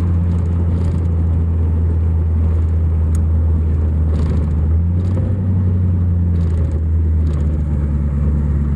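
1934 Chevrolet street rod's engine and exhaust droning steadily while cruising at a constant speed, heard from inside the cabin along with road and wind noise.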